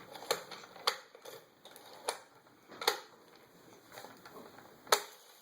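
Sharp plastic clicks and clacks from Hot Wheels toy cars and a plastic race track being handled and raced, about five irregularly spaced, the loudest near the end.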